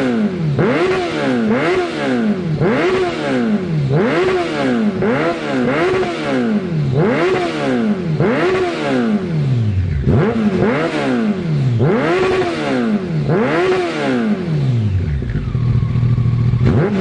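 Honda CBR1100XX inline-four engine through a Scorpion aftermarket exhaust, revved over and over about once a second, each blip climbing and falling away. Near the end it settles to a steady idle for a couple of seconds before revving again.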